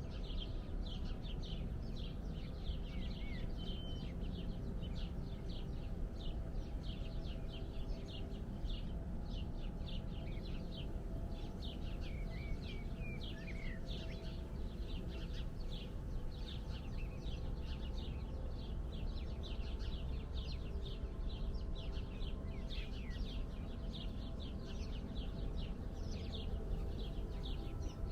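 Many small birds chirping at once, a dense run of short, quick chirps over a steady low rumble.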